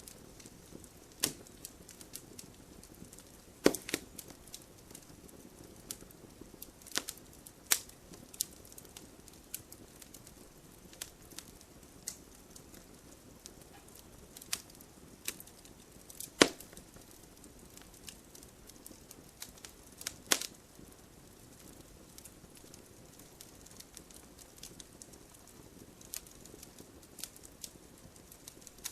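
Logs burning in a wood stove: irregular sharp crackles and pops over a faint steady hiss, the loudest pops coming about 4, 8, 16 and 20 seconds in.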